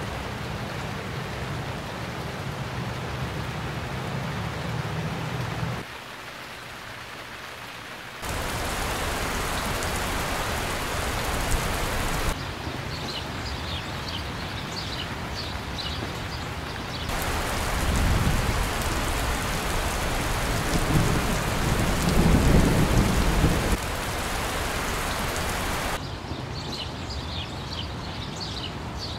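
Steady rain falling and spattering on surfaces, its level jumping abruptly every few seconds. Low thunder rumbles through the middle stretch.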